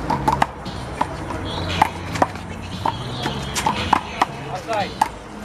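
A one-wall handball rally with the big blue rubber ball: a quick run of sharp slaps as the ball is struck by hand and bounces off the wall and the court, about a dozen in a few seconds.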